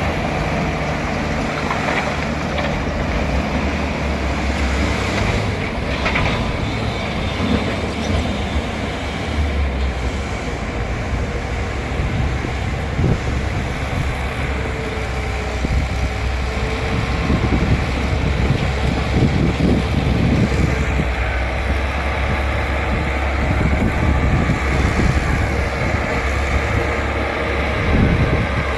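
Bulldozer's diesel engine running steadily, with irregular metallic clanking and rattling of its steel tracks.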